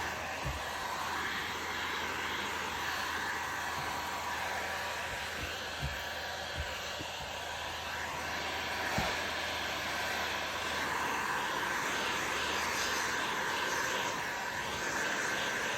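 Heat gun blowing steadily, with a faint whine, as it shrinks window tint film to the curve of a windshield. A few light knocks sound over it.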